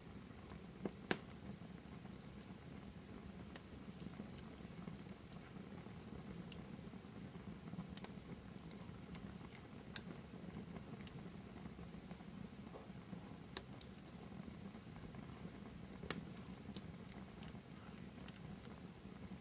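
Wood fire in a fireplace crackling faintly over a low steady rumble, with sharp pops scattered every few seconds. The strongest pops come as a pair about a second in.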